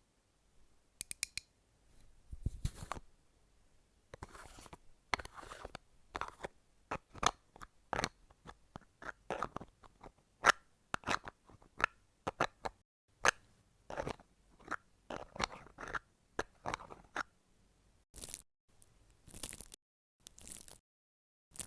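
Close-miked ASMR handling sounds: an irregular run of short, crisp taps and crackles, several a second, growing sparser near the end.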